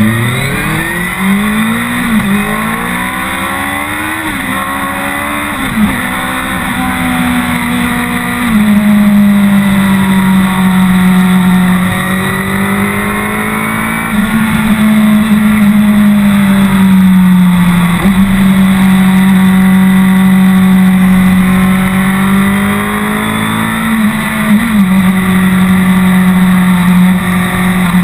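BMW K1200R Sport's inline-four engine heard from on board, pulling away and accelerating, its pitch climbing and dropping back at each of three quick upshifts. After that it runs at a fairly steady cruise with small swells in throttle, with one more shift near the end.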